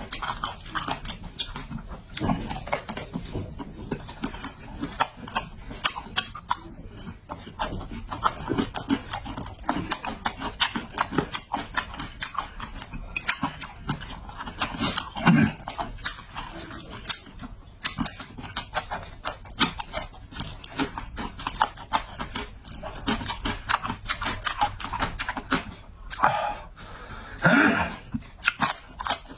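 Close-miked chewing and mouth sounds of a person eating: rapid wet clicks and smacks throughout, with a couple of louder throaty bursts about halfway through and near the end.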